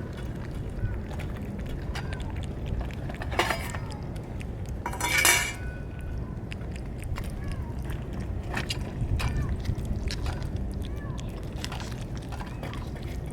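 Dry cat food rattling into a dish in a short pour about five seconds in, with scattered clinks and a steady low wind rumble.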